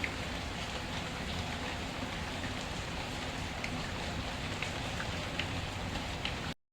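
Steady rain with scattered small crackles from a wood fire. The sound cuts out completely for a split second near the end.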